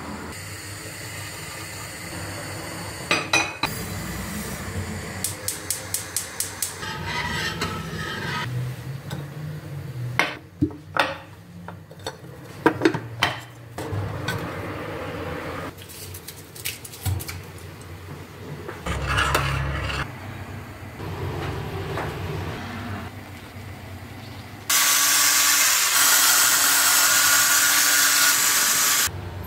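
Dishes and cutlery clinking and knocking, with a quick run of small clicks and, near the end, about four seconds of loud steady rushing noise that cuts off abruptly.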